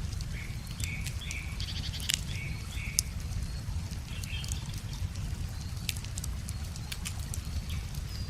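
Wood fire crackling with sharp scattered pops, over a steady low rumble of flowing water. Short high bird calls and a quick trill in the first half.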